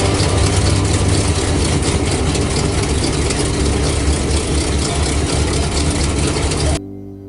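A loud vehicle engine running steadily with a heavy rumble. It cuts off abruptly near the end, giving way to soft, sustained musical tones.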